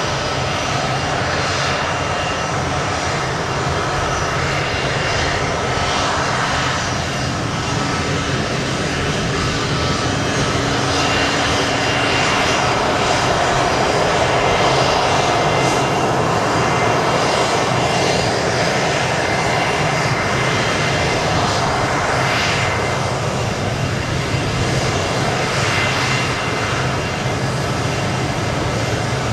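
Turbofan engines of a Boeing C-17 Globemaster III (four Pratt & Whitney F117s) running steadily: a loud, continuous rush with a thin high whine on top, swelling a little in the middle.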